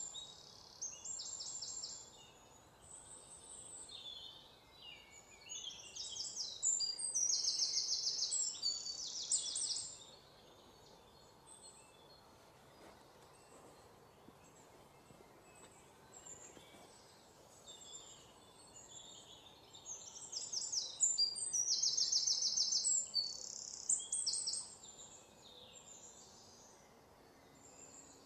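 Small songbirds chirping and singing rapid, high trills in bursts, over a faint steady hiss. The birdsong is busiest in the first ten seconds and again around twenty seconds in.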